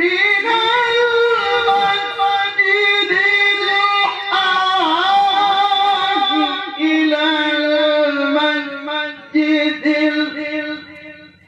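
A man's voice in melodic Quran recitation (tilawah), singing one long held phrase with wavering ornaments that breaks into shorter notes near the end.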